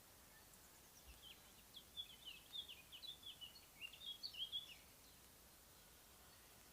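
A songbird singing one rapid phrase of quick, varied high notes lasting about four seconds, starting about a second in, over faint background hiss.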